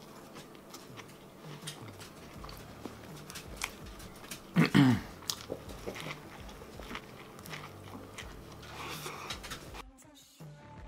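A man biting and chewing a giant grilled chicken sandwich close to the microphone: wet mouth noises and small crunches of bread and lettuce. There is a short vocal grunt with falling pitch about halfway through, and the sound cuts off suddenly near the end.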